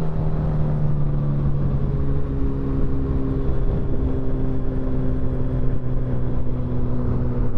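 Motorcycle engine running under way at a steady road speed, with road and wind rumble. The engine note holds steady and shifts in pitch a couple of times.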